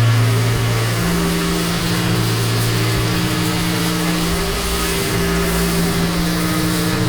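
Pressure washer's engine running under load with the hiss of the water spray. Its hum steps up in pitch about a second in and drops back near the end.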